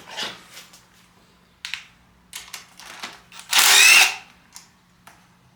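Metal clinks of sockets and tools being handled on the engine's bolts, then a loud burst of ratcheting of about half a second about three and a half seconds in.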